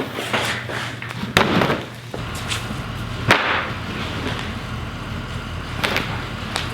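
A few sharp thumps or knocks, then a vehicle engine running steadily from about two seconds in, with a low hum and some wind noise.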